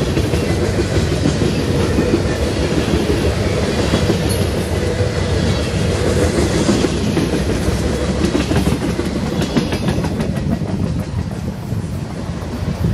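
Freight train's loaded flatcars rolling past, a steady rumble of steel wheels on rail with sharp clicks over the joints; the rumble eases slightly near the end as the last car goes by.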